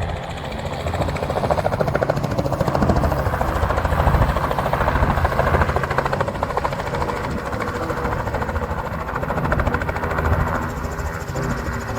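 Helicopter running, its rotor giving a fast, steady chop over the engine.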